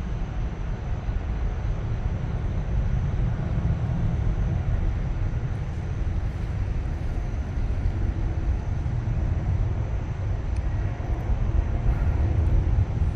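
Airplane flying overhead: a steady low rumble that grows a little louder toward the end.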